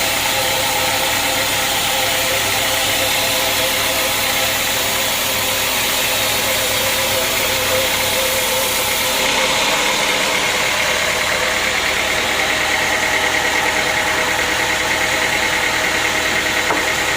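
Sawmill machinery running steadily. About nine seconds in, the sound changes: the high hiss drops away and a wavering, higher-pitched whine comes in.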